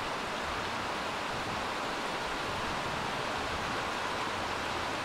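Sudden torrential rain (a guerrilla downpour) pouring down in a steady, even hiss.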